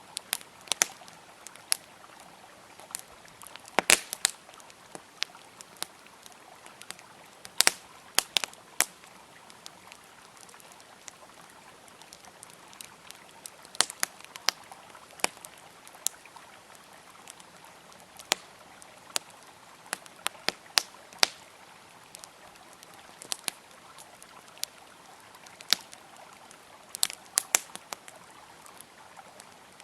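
Wood fire crackling, with sharp irregular pops and snaps, over the steady rush of a flowing river.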